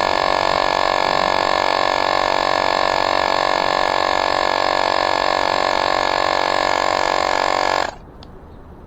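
Electric air pump running at a steady pitch, cutting off suddenly about eight seconds in.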